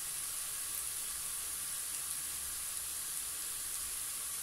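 Chopped ginger, garlic and green chilies frying in ghee on low heat: a soft, steady sizzle.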